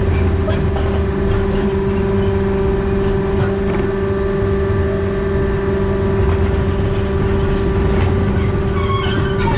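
Diesel engine of a narrow-gauge locomotive converted to diesel-hydraulic drive, running steadily with the train under way: a constant hum over a rumbling drone.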